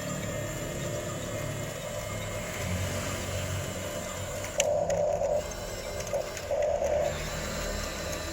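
Electric drive motors and gearbox of a Huina RC bulldozer whining in two short bursts, about halfway through and again a second or so later, over a steady low background hum.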